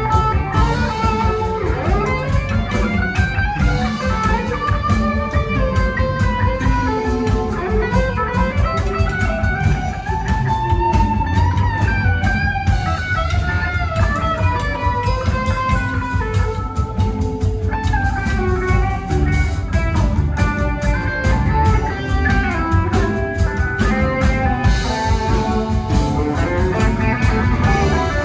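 A rock band playing an instrumental jam: melodic electric guitar lines over bass and drum kit.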